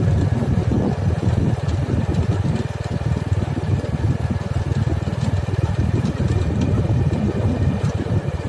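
Engine of road-repair machinery running steadily, with a fast, even low rumble and a few faint clicks above it.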